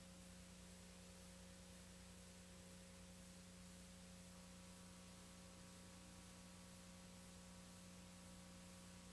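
Near silence: a faint steady hum with an even hiss, the background noise of VHS tape playback.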